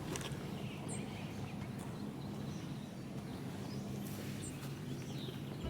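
Outdoor background noise: a steady low hum with a few short, faint bird chirps.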